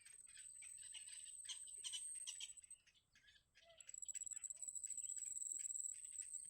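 Faint, rapid high chirps of baby birds in the nest, over a steady, very high trill that breaks off about two and a half seconds in and returns a second later.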